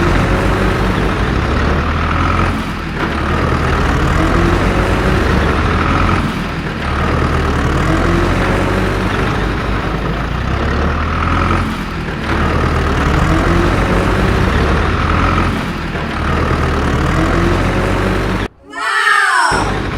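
Heavy truck or tractor engine sound running steadily, in a pattern that repeats about every four to five seconds. Near the end it cuts out briefly and a swooping sound effect plays.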